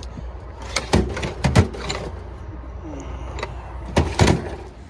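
A handful of sharp knocks and clatters from hard parts or tools being handled, over a steady low hum.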